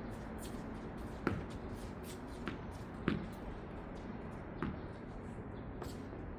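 Tennis ball struck by rackets and bouncing on the court during a rally: four sharp pops spread over a few seconds, the second and fourth of them the loudest, with shoes shuffling on the court.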